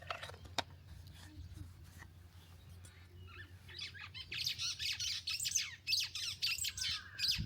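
Many small birds chirping at once, a dense chatter of quick, falling chirps that starts about four seconds in and grows louder.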